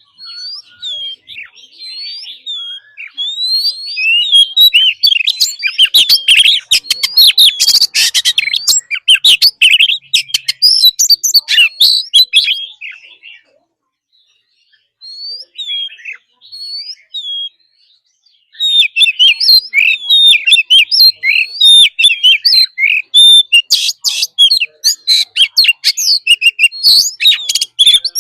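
Oriental magpie-robin singing hard: quick varied whistled phrases with fast harsh chattering runs. The song stops for a few seconds about halfway through, then starts again.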